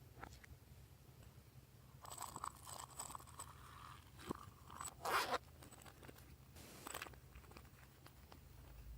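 Glossy slime being handled and mixed by hand: soft sticky crackles and clicks, with a louder squelching crackle about five seconds in and another shortly before the end.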